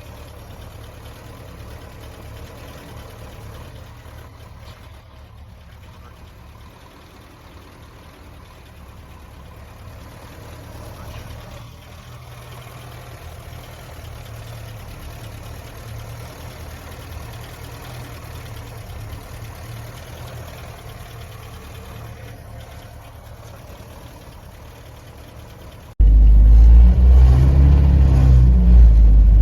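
GAZ 21's four-cylinder engine idling with a steady low rumble, shaking a little because it is still cold after its first start in years. Near the end the sound jumps abruptly to a much louder, closer engine noise.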